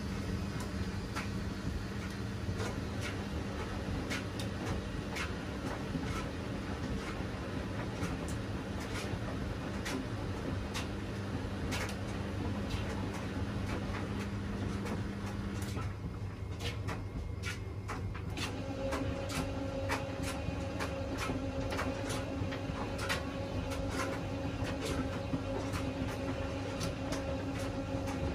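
Washing machine running mid-cycle: a steady motor hum with many light clicks and knocks from the turning drum. Just past halfway the motor's tone breaks off for about two seconds and comes back at a higher pitch.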